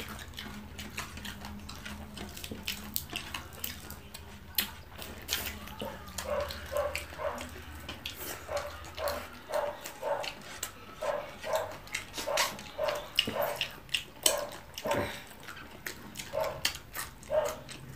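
Close-up eating sounds: wet chewing and lip smacking with small clicks as fried fish is picked apart by hand. From about six seconds in the chewing settles into a steady run of smacks, about two a second. A low hum stops about halfway through.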